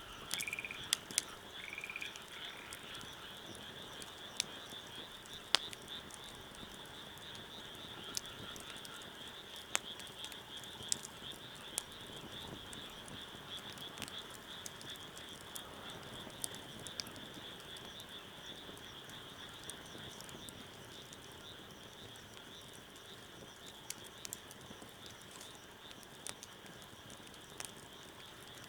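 Wood fire crackling with scattered sharp pops, over a steady high-pitched chorus of calling frogs. A few short calls stand out in the first two seconds.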